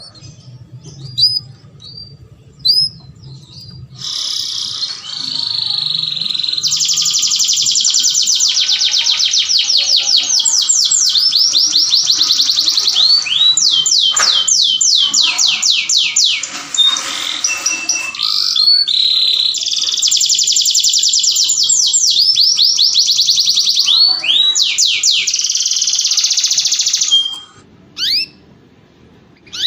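Domestic canary singing: a few short rising chirps, then from about four seconds in a long, loud song of rapid high trills in several phrases with brief breaks, stopping a few seconds before the end, followed by scattered chirps.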